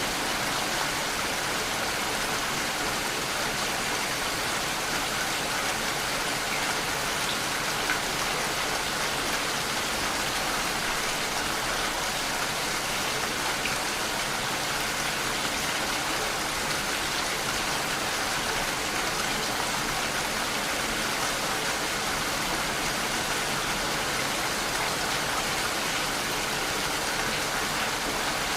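Steady rainfall, an even hiss of drops hitting a surface, with no change in strength.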